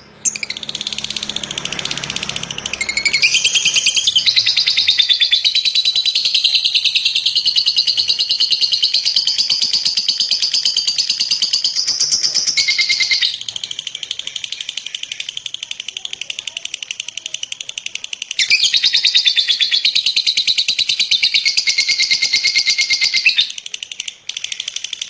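A lovebird's long, very rapid chattering song (the 'ngekek' of contest lovebirds), delivered in long unbroken bouts. The song is loud, drops softer for a few seconds partway through, then comes back loud.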